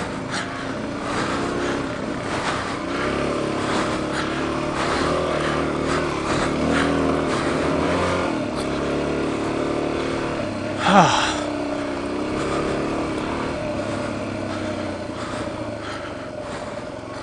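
Suzuki DR-Z400's single-cylinder four-stroke engine running under varying throttle on a rocky trail, its pitch rising and falling as it is revved and eased off, with scattered knocks. A short, louder sound with falling pitch comes about eleven seconds in.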